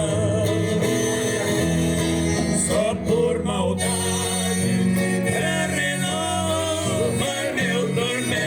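Male singing with plucked guitar accompaniment, a country-style song.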